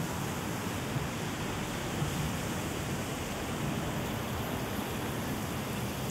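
Steady rain falling on a wet city street, heard as an even wash of noise with no distinct events.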